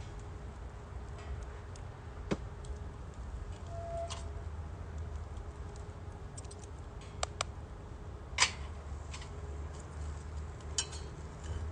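Firewood burning in a Uniflame Nature Stove Large, with about half a dozen sharp, irregular pops and cracks over a low steady rumble. The loudest crack comes about two-thirds of the way through.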